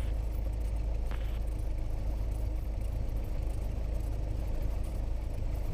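Cessna 172S's four-cylinder Lycoming IO-360 engine and propeller running at low taxi power, heard inside the cabin as a steady low drone. A brief click about a second in.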